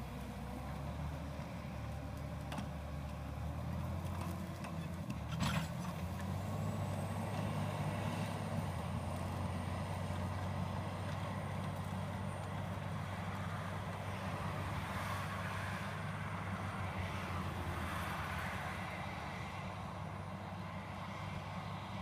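A motor vehicle's engine running steadily, with a sharp click about five seconds in and a faint high whine through the middle.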